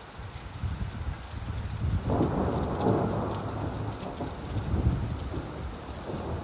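Steady rain with a rumble of thunder that swells suddenly about two seconds in and slowly fades.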